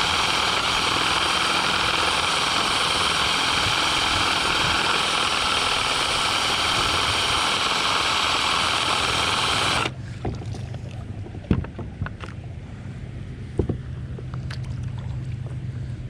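Cordless drill driving a drill-paddle trolling motor on a kayak, whirring steadily with water churning, then cut off suddenly about ten seconds in. After that there is a low hum and a few sharp knocks.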